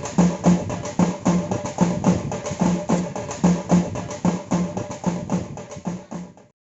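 Drum music with a steady beat: about two strong, deep strokes a second with lighter strokes between. It fades down and stops shortly before the end.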